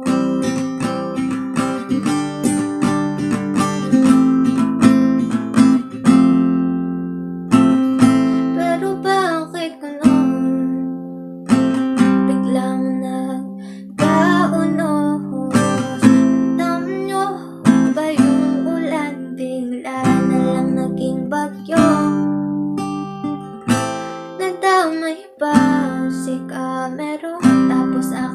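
Acoustic guitar music, strummed and plucked chords at a gentle, even pace.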